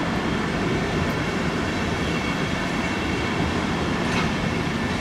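Bayerische Regiobahn RE5 electric multiple unit moving through the station, a steady rumble of wheels on the track.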